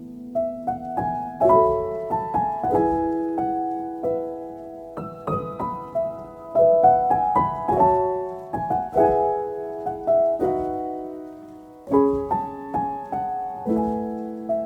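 Soft instrumental piano music: a slow melody of single struck notes and chords, each ringing out and fading.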